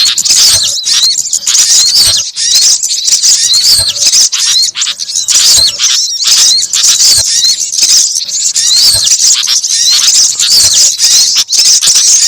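Mixed recording of small songbirds chirping and twittering densely at high pitch, with a short swooping whistle repeated about twice a second; a bird-lure (pikat) call recording.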